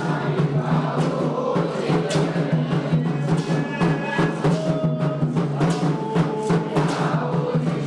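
Candomblé ritual music for Xangô: hand drums beating a fast, dense rhythm under a group of voices chanting.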